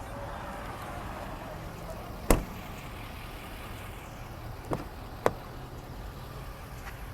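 Steady low rumble of an idling car engine, heard from inside the vehicle. Three sharp clicks or knocks cut through it, a loud one a little over two seconds in and two smaller ones close together about five seconds in.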